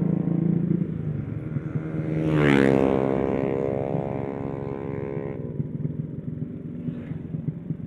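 Motorcycle engine running on the road. About two and a half seconds in, a pitched engine note swells and shifts in pitch, holds steady, then cuts away abruptly at about five and a half seconds, leaving a low rumble.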